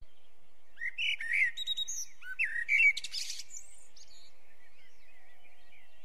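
Birdsong: a quick run of varied chirps and whistled notes from about one to three and a half seconds in, then fainter chirping.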